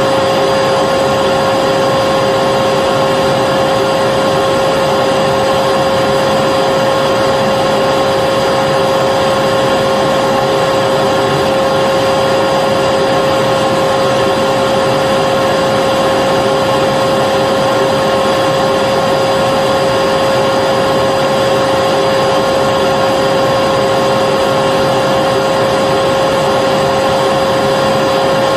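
Vacuum cleaner running steadily, a constant rushing noise with a steady whine, unchanging throughout.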